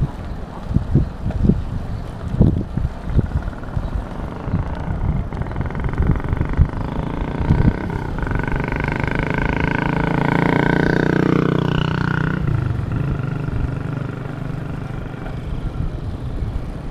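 Wind buffeting the microphone, with a motor engine passing in the middle: it builds, drops in pitch as it goes by, then cuts away.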